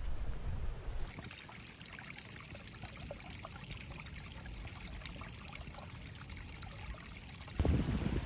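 Water trickling and spattering in many small drips, with wind buffeting the microphone in the first second and again, loudly, near the end.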